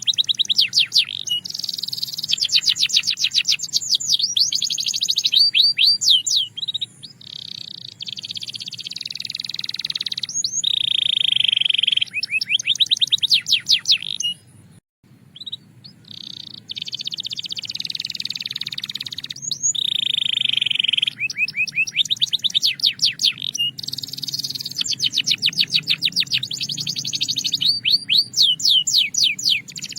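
Belgian canary singing a long, continuous song of rapid trills and held whistled tones, with a short pause about halfway through.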